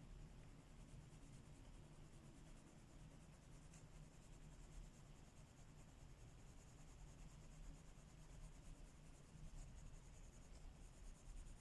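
Faint, continuous scratching of coloring strokes on a paper page.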